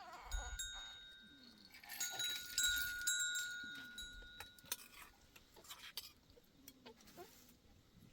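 Metal ringing, like a small bell struck about three times in the first half, each ring dying away slowly, with scattered clicks and knocks around it.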